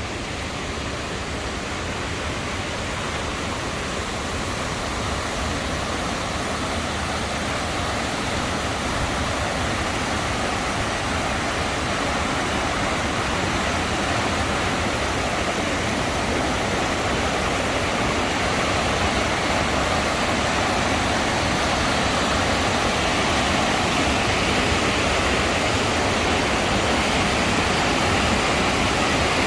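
Rushing water: a steady, even rush with no distinct events, growing gradually louder.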